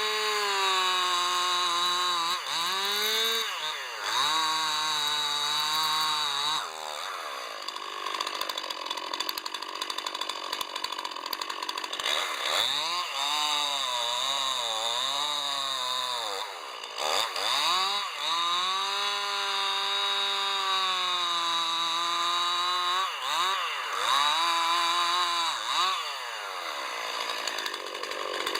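Two-stroke chainsaw cutting oak, run hard without a pause. Its engine note sags and wavers each time the chain bites into the wood, then revs sharply back up, several times over.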